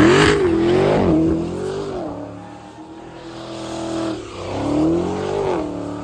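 Car engine revving hard, its pitch swinging up and down again and again. It is loudest at the start and surges again about five seconds in.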